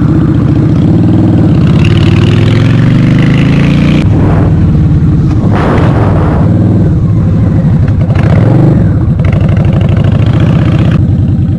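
Honda Shadow RS (VT750S) V-twin motorcycle engine running under way, loud and steady. Its pitch climbs for about four seconds, drops suddenly, then rises and falls again a couple more times.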